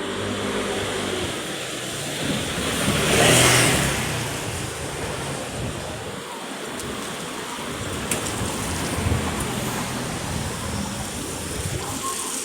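Street traffic with engines running, and a motor vehicle passing close and loud about three seconds in.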